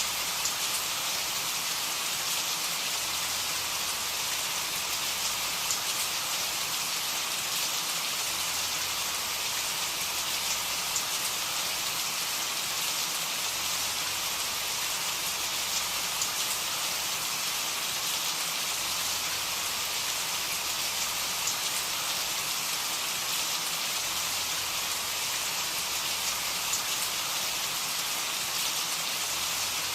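Steady rain falling, a constant hiss with fine patter of drops hitting a surface.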